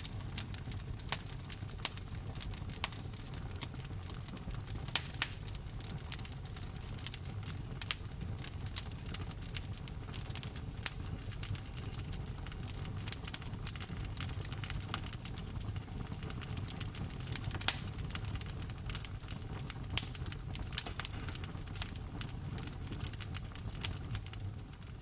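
Wood fire crackling: frequent, irregular sharp pops and snaps over a steady low rumble of burning, fading out right at the end.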